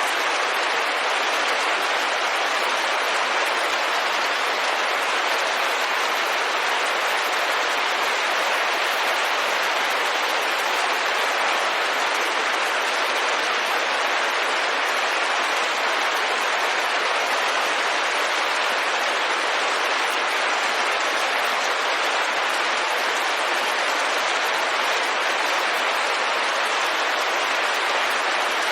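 Steady rain on a window: an even hiss with no single drops or knocks standing out.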